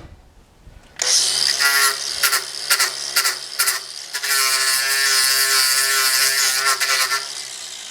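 Small electric power tool motor, such as a drill/driver, run in several short bursts and then held on steadily for about three seconds before stopping.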